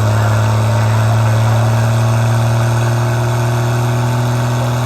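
Vehicle engine running steadily at a constant speed, a loud, even low hum with no change in pitch.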